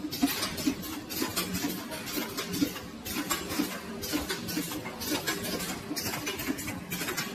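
Automatic sorting and packaging machine running: a steady mechanical hum with frequent irregular clicks and clatters, several a second, as the chews are moved and counted.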